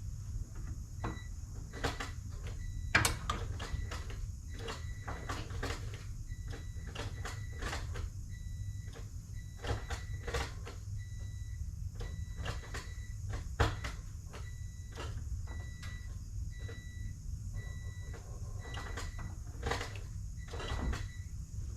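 Short electronic beeps sound on and off, some brief and some held longer, over scattered clicks and knocks and a steady low rumble.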